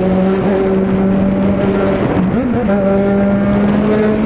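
Suzuki Bandit 650N inline-four motorcycle engine running loud through a 4-into-1 exhaust, holding a steady pitch with short dips about half a second and two seconds in.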